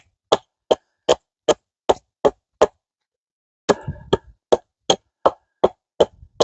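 Axe chopping a notch into a log: quick, evenly spaced blows, about two and a half a second, with a pause of about a second in the middle before the chopping resumes.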